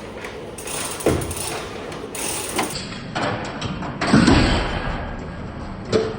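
Heavy metal thumps and clunks from a 1965 VW Beetle body and its hook rig as it is pulled to separate it from the chassis, four of them with the loudest about four seconds in, over a rough clattering background. The pull fails: the body does not come off.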